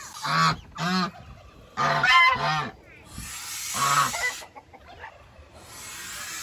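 Chinese geese honking, about five harsh, loud calls over several seconds, as they defend their nest and goslings.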